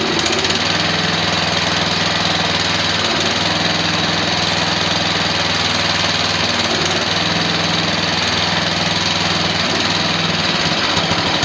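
12 hp Briggs & Stratton small engine running steadily through a temporary exhaust, loud rather than quiet.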